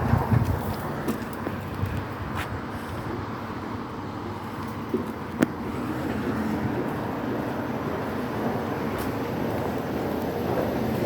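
Subway train running with a steady rumble and low hum, with a few knocks near the start and two sharp clicks about halfway.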